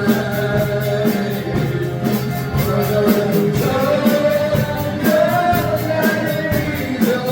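A band playing a rock song with a lead singer holding long sung notes over guitar, drums and a cymbal keeping a steady beat.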